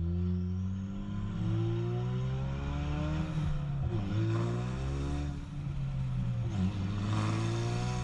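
Ford Mustang EcoBoost's turbocharged 2.3-litre four-cylinder, running through a catless downpipe with no rest of the exhaust, pulling while being driven: the engine note climbs, drops at a gear change about four seconds in, climbs again and drops again about two and a half seconds later.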